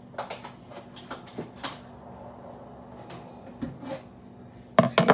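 Scissors cutting a cup in half: a run of snips and crinkles in the first couple of seconds, then scattered quieter ones and a few sharp clicks near the end.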